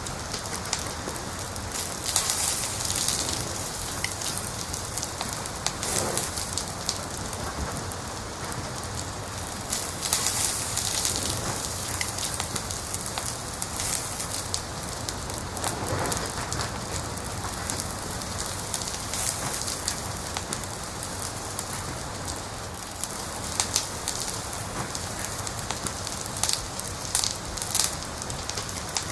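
Wood fire crackling: a steady hiss with frequent sharp pops and snaps, flaring into denser crackling a few times.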